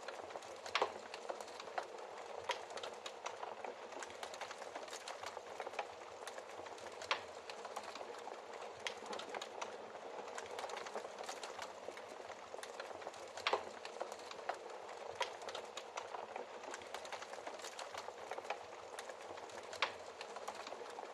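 Wood fire crackling in a fireplace: a steady hiss with frequent small crackles and a few louder pops spread through.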